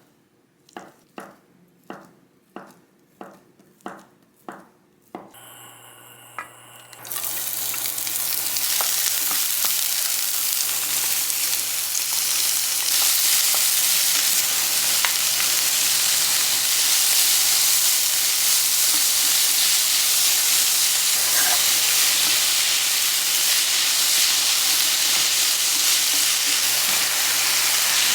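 About seven evenly spaced knife strokes on a cutting board, then a low steady hum comes on. About seven seconds in, food hits a hot pan and sizzles, frying on steadily with occasional crackles for the rest.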